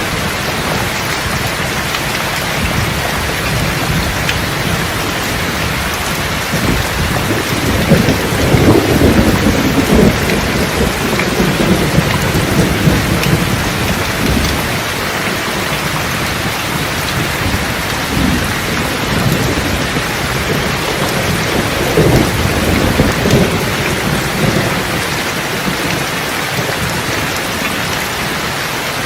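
Steady heavy rain with rolls of thunder: a long rumble swells about a quarter of the way in, and further rumbles come past the middle.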